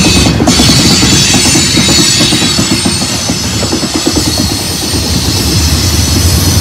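Freight cars of a manifest train rolling past, their wheels squealing in thin high tones over a steady heavy rumble and rapid clickety-clack.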